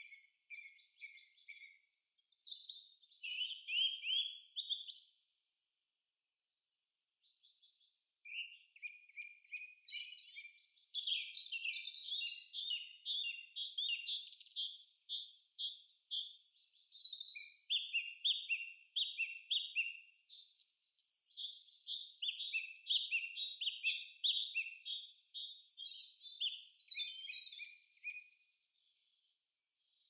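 Songbirds singing: quick runs of repeated high chirping notes, with a short gap about six seconds in, then near-continuous song that fades just before the end.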